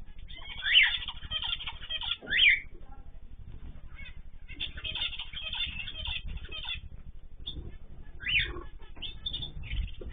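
Ornamental cage birds chirping and calling together, with three loud rising calls standing out, the first two within the first few seconds and the third near the end.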